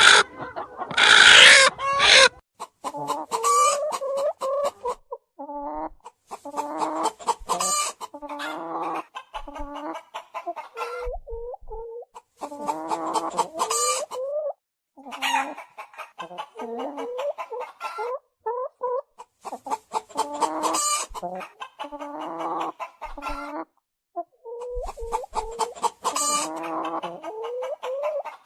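Domestic chickens clucking, in runs of short pitched calls with brief pauses between them. A louder, harsher call comes in the first two seconds.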